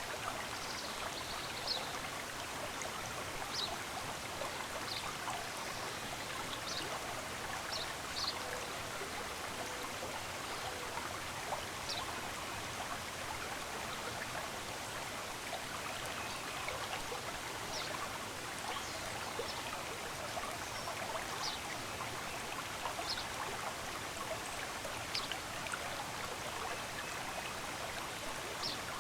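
Running water of a stream, a steady rush, with short high bird chirps scattered through it every second or two.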